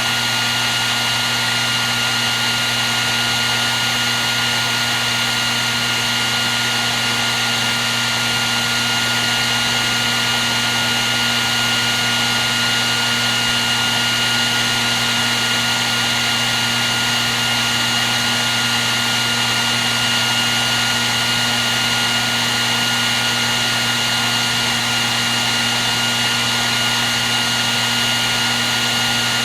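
Hair dryer running continuously: a steady blowing hiss with a constant motor hum and a high whine, no change in speed.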